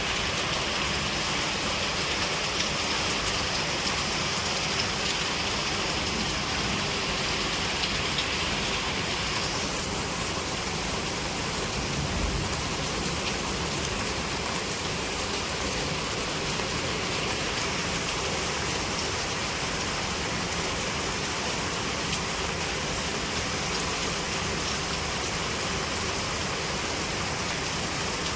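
Steady rain falling and pattering on surfaces, an even hiss with faint scattered drop ticks; the higher part of the hiss eases slightly about ten seconds in.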